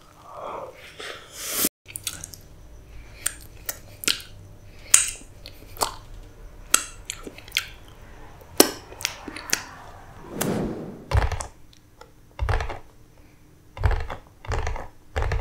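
Close-up mouth sounds of eating black forest cake: chewing with sharp wet clicks and smacks, and fingers being licked. In the last few seconds, a run of low thumps as hands tap on a cardboard cake box.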